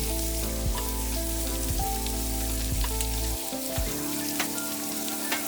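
Instrumental background music with soft held notes over a steady crackling hiss with scattered small ticks.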